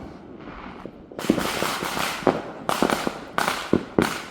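Fireworks and firecrackers going off. After a quieter first second comes a rapid string of sharp pops with crackling between them.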